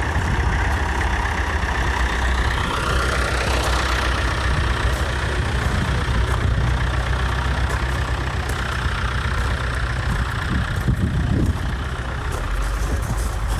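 A vehicle engine idling with a steady low rumble; its note rises briefly a few seconds in.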